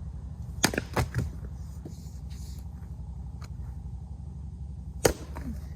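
Sharp wooden cracks of firewood being worked, over a steady low engine hum. There are three quick cracks about a second in and one loud crack about five seconds in.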